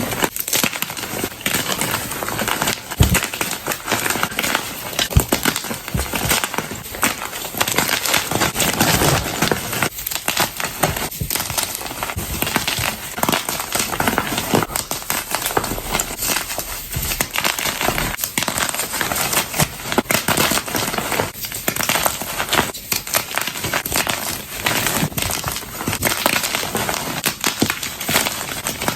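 Soft blocks of gym chalk (magnesium carbonate) being crushed by hand, a continuous run of crunches and crackles as the blocks crumble to powder.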